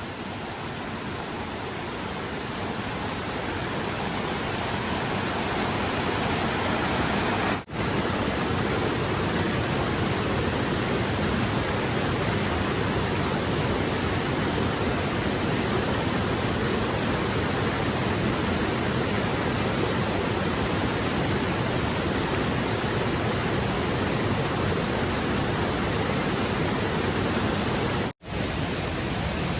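Rushing water of a mountain stream, a steady hiss that grows louder over the first few seconds, cut by two momentary gaps.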